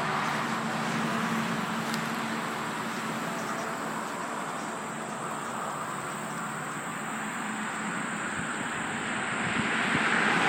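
Road traffic noise: a steady rush from passing vehicles that grows louder near the end.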